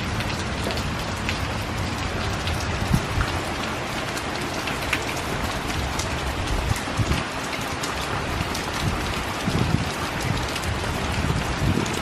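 Heavy rain falling steadily, with many small drop ticks and a few dull knocks.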